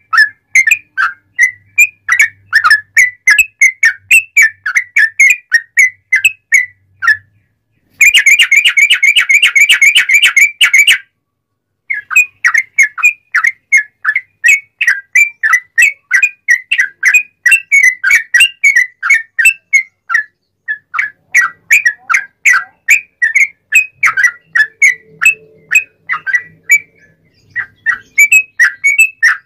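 Yellow-vented bulbul (trucuk) singing loudly in rapid strings of short whistled notes, several a second. About eight seconds in it breaks into a dense, fast trill for about three seconds.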